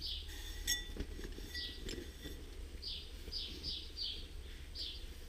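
Small birds chirping: short, high chirps in quick runs. A few light metallic clicks come from the steel oil-centrifuge cup being wiped with a cloth.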